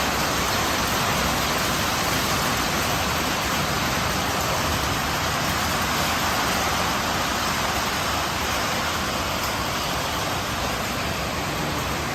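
Steady light rain falling, an even hiss with no breaks.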